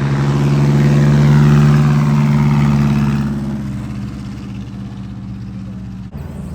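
Vintage race car engine passing at speed, growing louder to a peak about a second and a half in, then fading away. Quieter engine noise carries on after it, with an abrupt cut near the end.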